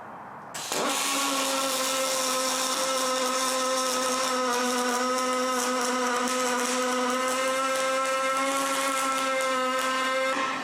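Electric power tool motor running at a steady speed for about ten seconds, with a constant whine, starting abruptly just after the start and cutting off at the end.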